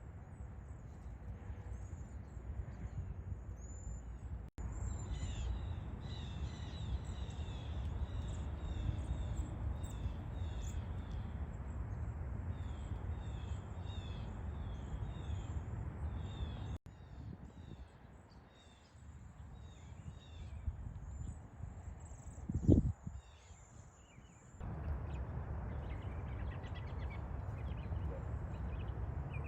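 A flock of small birds chirping and twittering while feeding in a fruit tree, over a steady low rumbling noise. There is one loud thump about three-quarters of the way in.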